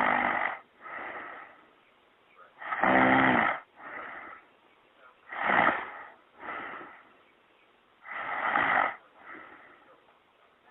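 A woman breathing heavily in a steady rhythm: a loud breath followed by a softer one, repeating four times about every two and a half seconds. The loud breath about three seconds in is voiced.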